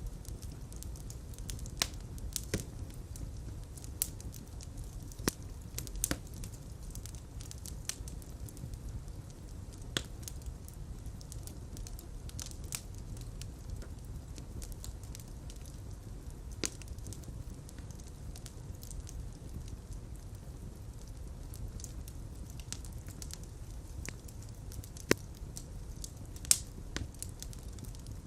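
Fireplace fire burning: a steady low rumble of flames with irregular sharp crackles and pops, two louder pops near the end.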